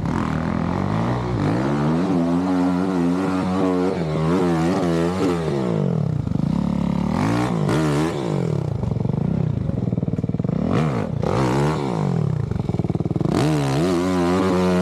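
Dirt bike engine running hard, its pitch climbing and dropping again and again as the throttle is worked and opened up, with some clatter.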